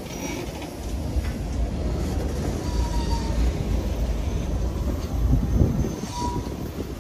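CSX freight train rolling by: a steady low rumble of wheels and cars that swells briefly near the end, with two short faint high-pitched squeaks about three and six seconds in.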